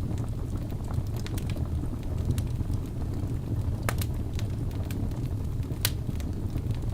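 Wood fire burning in a fireplace: a steady low roar of flames with scattered sharp crackles and pops from the logs, two of them louder, about four and six seconds in.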